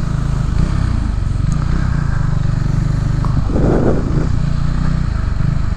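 Motorcycle engine running at low speed with a steady low rumble. A short burst of noise comes in about three and a half seconds in, and the engine note turns to a more even pulsing near the end.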